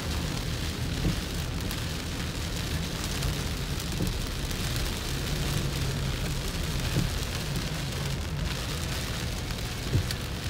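Heavy rain hitting a car's windshield and body, heard from inside the moving car, over a steady low rumble of engine and road.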